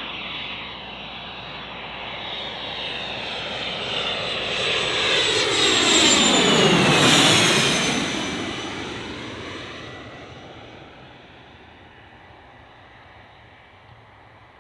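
Cessna 550 Citation II business jet passing low overhead: the whine and rush of its twin Pratt & Whitney JT15D turbofans build to a peak about seven seconds in, the pitch dropping sharply as it goes by, then fade away.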